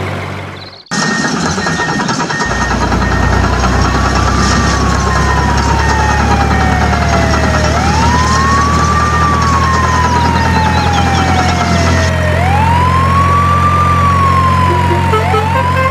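A siren wailing, rising quickly and falling slowly about once every four seconds, over a steady low engine hum; a second, higher siren joins near the end.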